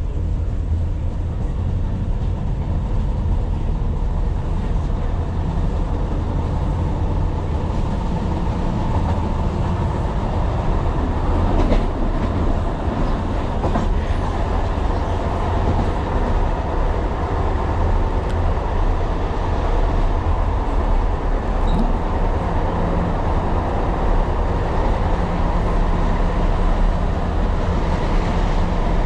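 Tyne & Wear Metro train running along the line: a steady low rumble of wheels on rail, with a few sharp clicks. The loudest click comes about twelve seconds in.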